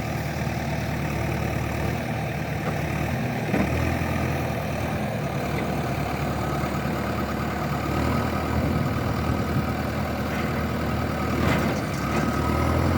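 An engine idling steadily at low speed, its low hum shifting slightly a few times.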